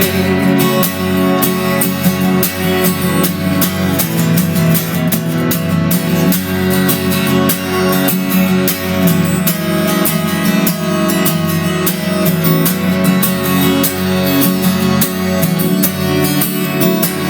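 Acoustic guitar music: an instrumental passage of steadily plucked and strummed chords, with no singing.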